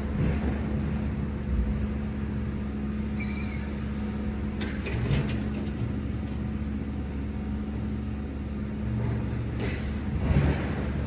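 Truck running steadily on the road: a low engine and road rumble with a steady hum, and a few short rattles.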